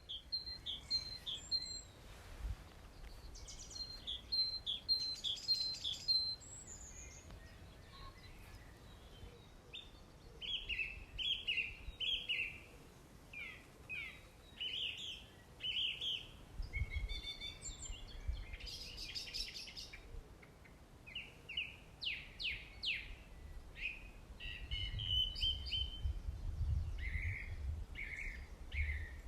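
Wild birds singing and calling: a run of short chirps and quick falling notes, some repeated in rapid series. A low rumble comes up for a while in the middle and again near the end.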